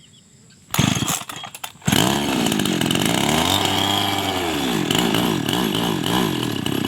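Small single-cylinder motorcycle engine with a cheap new carburettor starting: it fires and sputters briefly, dies, then catches about two seconds in and runs with the revs rising and falling. The mechanic finds the carburettor will not tune properly.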